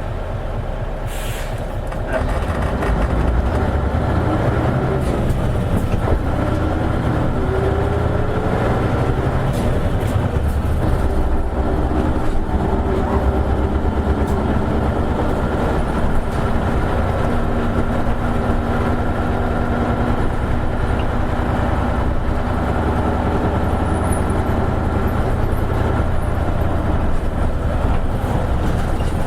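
Isuzu KL-LV280N1 city bus heard from inside the cabin: the diesel engine and drivetrain run steadily, get louder about two seconds in, and the engine note rises as the bus gathers speed.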